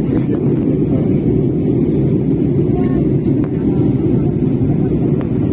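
Steady rumble of airliner cabin noise on the landing approach: jet engines and airflow heard from inside the passenger cabin, even and unbroken.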